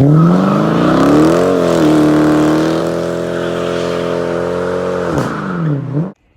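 Car engine revving hard: the pitch climbs over the first second and a half, holds high and steady for a few seconds, then drops and rises once more before cutting off abruptly.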